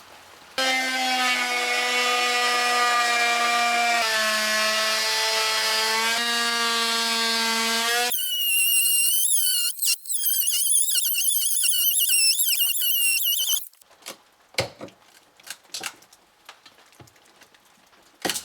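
A power tool running steadily for about seven seconds, then a higher, wavering whine for about five seconds, followed by a few sharp knocks near the end.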